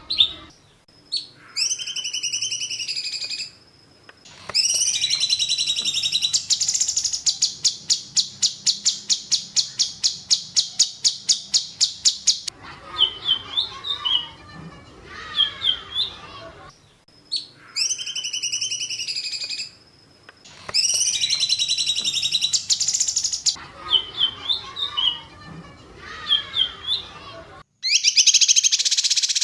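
Songbird masteran recording: loud, high, sharp whistled phrases and a long rapid trill of about five notes a second. The same sequence of calls repeats about halfway through, as a looped tutoring track does.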